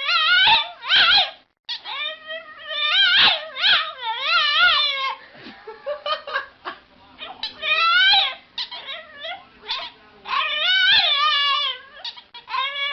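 An animal crying out over and over: a long run of high calls, each under a second, with a quavering, wavering pitch and short gaps between them.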